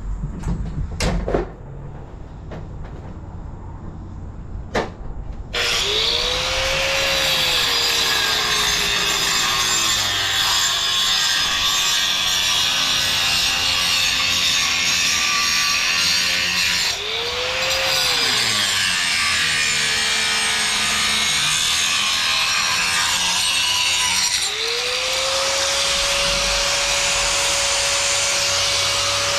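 A few sharp knocks, then about five seconds in a handheld power cutter starts up and cuts into the column's stone and mortar with a loud, gritty rasp. Its motor tone rises as it spins up and sags as it bites. Twice it briefly eases off and spins back up.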